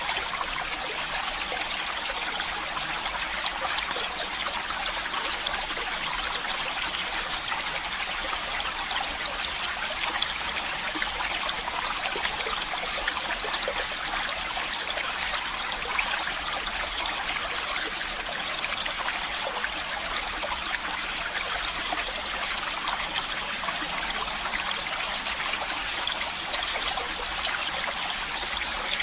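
Stream of running water, a steady, even rush that sits mostly in the upper range with little low rumble.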